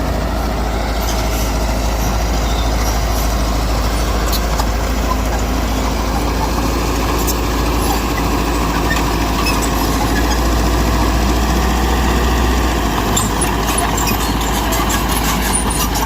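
Heavy diesel engine of construction machinery running steadily under load, with a strong low rumble that swells briefly a little past the middle. Light, quick clicking comes in during the last few seconds.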